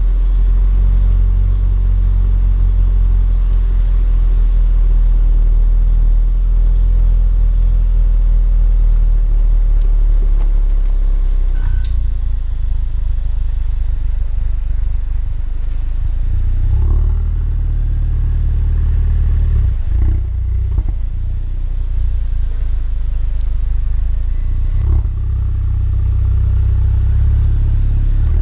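2018 Ford Focus RS's 2.3-litre turbocharged four-cylinder and stock exhaust running as the car drives, a steady low rumble. The note shifts about twelve seconds in and changes briefly several more times after that.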